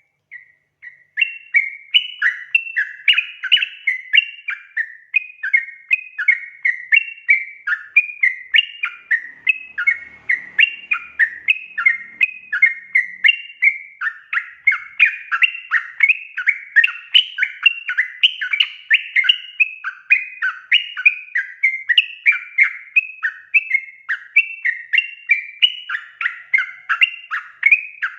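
Yellow-vented bulbul (trucukan) song: a fast, bubbly chatter of quick warbled notes that starts about a second in and then runs on without a break.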